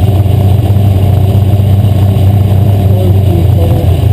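Asphalt modified race car's engine running loud and steady at racing speed, with a constant low drone and no let-up.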